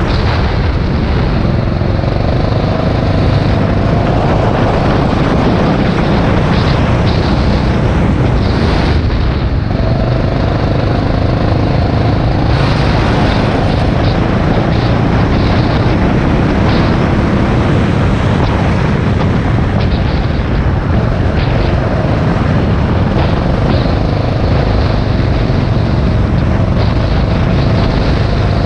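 Rental go-kart engine running hard, heard from the kart itself, its note rising and falling as the driver accelerates and lifts, with a brief drop about nine seconds in.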